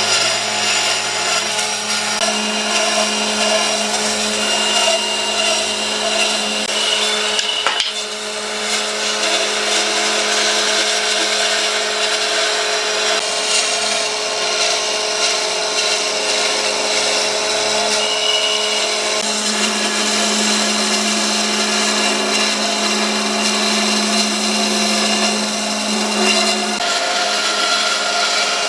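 Electric power tool running steadily on hardwood, with a constant motor hum and the rasp of the tool against the wood. It dips briefly about eight seconds in.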